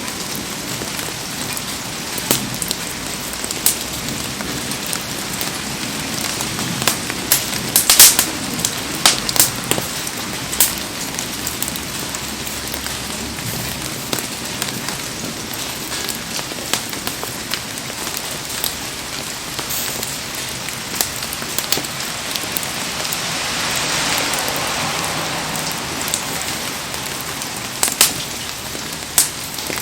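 Heavy rain falling steadily, with scattered sharp cracks, the loudest cluster about eight seconds in, and a brief swell of hiss a little past the middle.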